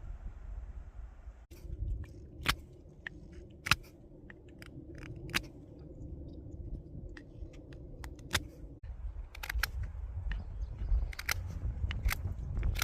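Scattered light clicks and taps, like the handling of the wood and tools, over a low rumble, with a faint steady hum from about a second and a half in until about nine seconds. The drill is not running.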